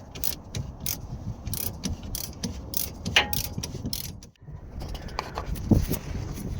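Ratchet wrench clicking in repeated strokes as the pinch bolts of a steering shaft universal joint are tightened onto the steering gearbox shaft. The clicks come about two a second, pause briefly a little past four seconds in, and a louder knock follows near the end.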